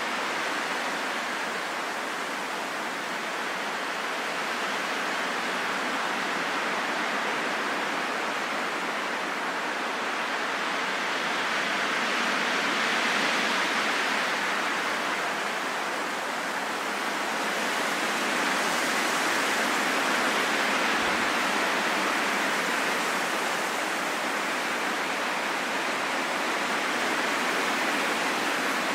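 Steady rain falling, an even hiss that swells and eases gently in level.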